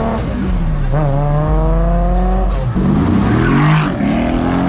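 A car engine revving hard, its pitch climbing and dropping several times, with tyres squealing for about a second partway through, as in a burnout or drifting.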